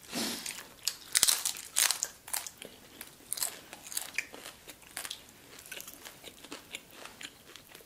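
Close-miked crunching and chewing of crispy fried food: a few sharp crunches in the first two seconds, then a run of softer crunches and chewing.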